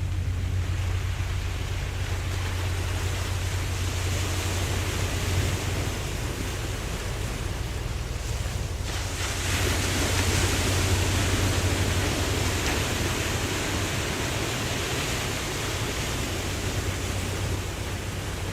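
Ocean waves washing, a steady rush of noise over a low rumble; a wave swells louder about halfway through.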